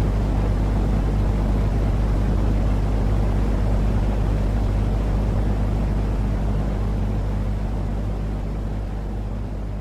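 Steady, rumbling sleep-noise track, heaviest in the low end with a constant low hum under it, like a motor or vehicle drone. It begins fading out slowly in the last few seconds.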